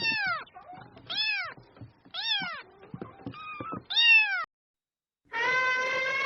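A cat meowing four times, each meow short and rising then falling in pitch. Near the end a long, steady animal call starts.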